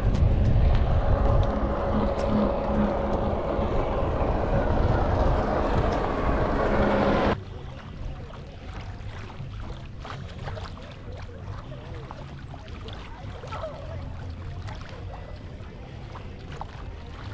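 A boat motor running with a steady hum over water and wind noise; it cuts off suddenly about seven seconds in, leaving quieter lapping water with small knocks.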